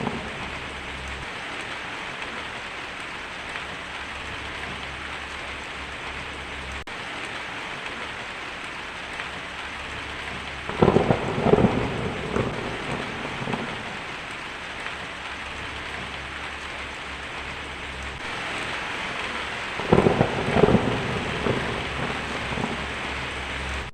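Heavy rain drumming steadily on a tin roof, with two claps of thunder, about eleven seconds in and again about twenty seconds in, each rumbling for a few seconds.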